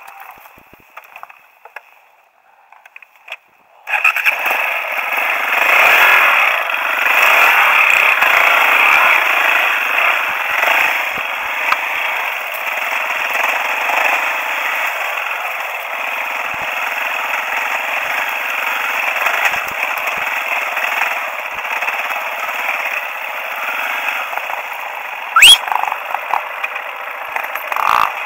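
Motorcycle engine running loudly and steadily, starting suddenly about four seconds in after a quiet opening; a short sharp rising sound cuts in near the end.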